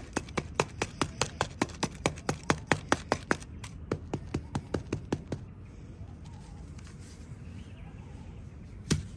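Quick sharp taps, about four a second, from working wet sand-cement paste into a small shape mould. The taps stop about five seconds in, and there is one more sharp knock near the end.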